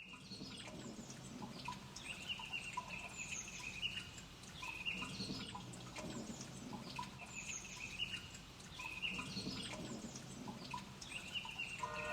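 Several songbirds singing together, with many short chirps and trills over a faint low hum.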